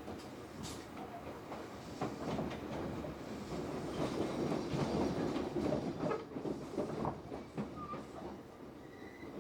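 Tobu 8000 series train running slowly, its wheels clattering over rail joints and points. The rumble swells in the middle and eases near the end.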